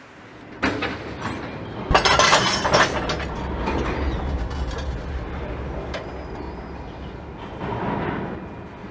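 A train running: a rumble with rapid metallic clanks and clicks. It comes in suddenly about half a second in, is loudest about two seconds in, then runs on steadily.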